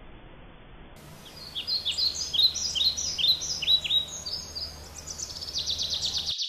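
Several small songbirds chirping over one another in a burst of quick, downward-sweeping high chirps, with a fast trill coming in near the end.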